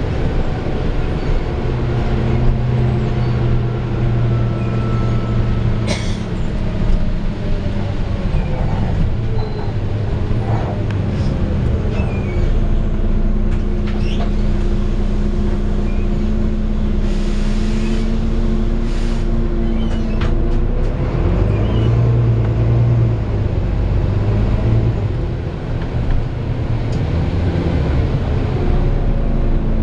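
Volvo B9TL double-decker bus's six-cylinder diesel engine running under way, heard on board as a steady drone whose pitch shifts as the bus speeds up and slows. A few light knocks and rattles come through, with a short hiss a little past halfway.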